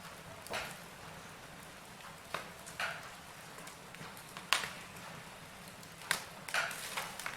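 Wood fire crackling in a fireplace: irregular sharp pops and snaps over a low steady hiss, with the loudest crack about four and a half seconds in.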